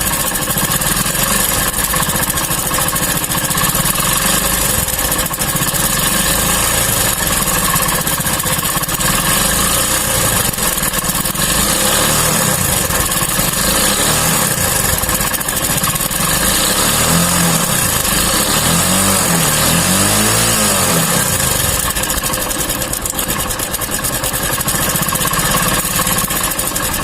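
Hero Passion Plus single-cylinder engine idling steadily, with a fast mechanical ticking from the timing chain. It has just been restarted with the chain tensioner primed with engine oil; the chain noise is expected to settle as the oil reaches the tensioner. A few short swells in the engine note come about two-thirds of the way through.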